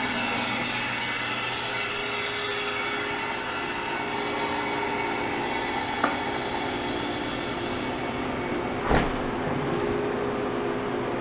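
Air hissing into a Harvest Right freeze dryer's vacuum chamber through the opened drain valve, the hiss gradually softening as the chamber comes back up to air pressure, over a steady machine hum. A small click about six seconds in and a short thump near nine seconds as the door is unlatched and pulled open off its seal.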